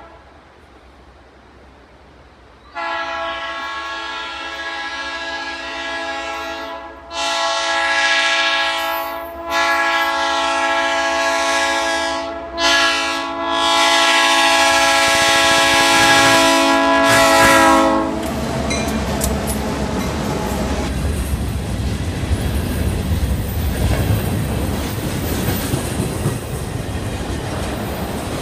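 Diesel freight locomotive's air horn sounding the grade-crossing warning as the train approaches: a run of long blasts with one short blast, the last held until the locomotive reaches the crossing about two thirds of the way in. After that comes the steady rumble and clickety-clack of tank cars rolling past.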